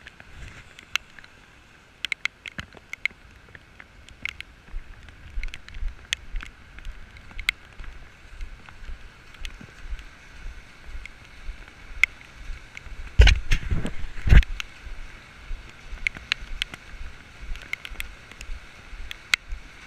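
Raindrops ticking irregularly on a GoPro camera's housing over a steady hiss, with wind buffeting the microphone. Two loud thumps a little past the middle.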